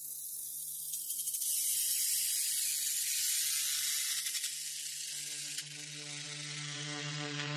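Sampled-instrument drone from a sound-design preset built from bee recordings: a steady low buzzing tone with a hissing, airy layer above it whose brightest top slowly dulls, as if a filter were closing. It grows louder about a second in.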